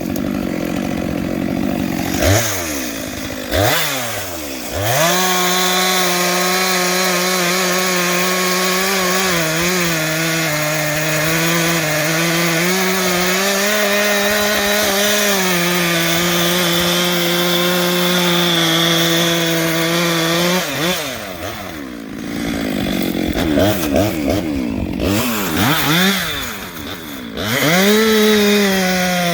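Chainsaw revving a few times, then cutting steadily through dry white oak for about fifteen seconds with its engine note holding under load. It revs up and down again near the end.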